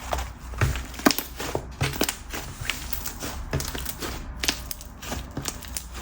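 Hands squishing and folding a soft whipped-texture slime, with a dense stream of irregular crackling pops as trapped air pockets burst.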